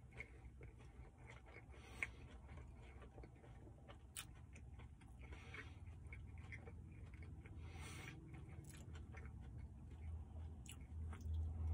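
A person chewing a mouthful of burrito with closed lips: faint, irregular wet smacks and small clicks. A low steady hum underneath grows louder near the end.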